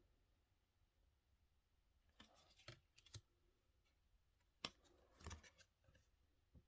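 Faint clicks and light rustles of oracle cards being handled and laid down, a few scattered taps over otherwise near silence.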